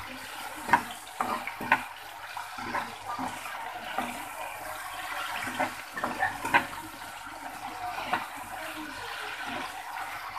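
Sea cucumber pieces sizzling in hot oil in a wok, with a metal spatula scraping and knocking against the pan as they are stir-fried. The clicks and scrapes come every second or so over the steady sizzle.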